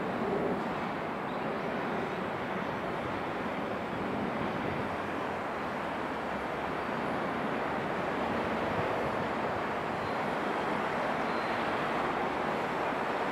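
Distant train approaching: a steady rumble that grows slightly louder in the second half.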